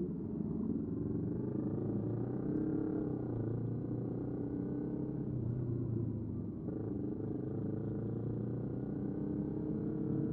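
Motorcycle engine running at a steady, moderate speed, its pitch dipping and rising a little a few times.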